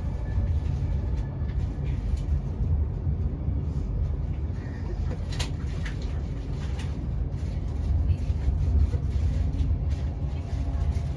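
Avanti West Coast Class 390 Pendolino electric train running at speed, heard from inside the carriage: a steady low rumble with a few faint clicks.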